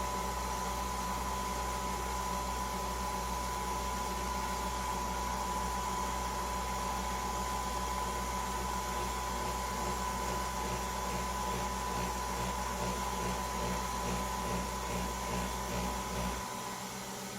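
Steady mechanical hum with a constant high tone running through it; the deep part of the hum drops out near the end.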